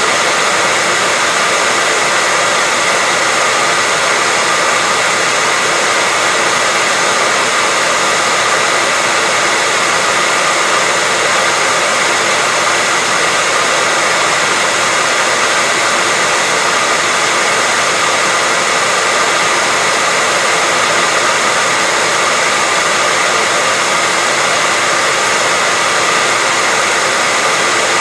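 Hairdryer running steadily on one setting: a constant airy rush of fan and airflow with a faint steady whine.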